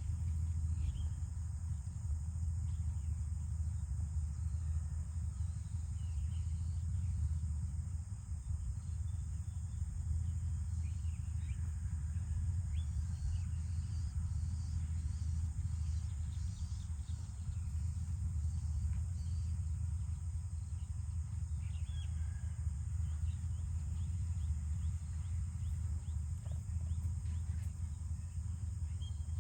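Rural outdoor ambience: a steady high drone of insects, with faint scattered bird chirps over a constant low rumble.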